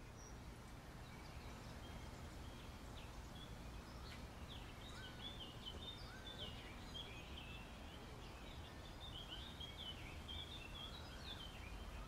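Faint birds chirping, many short overlapping chirps and trills, over a steady low background rumble.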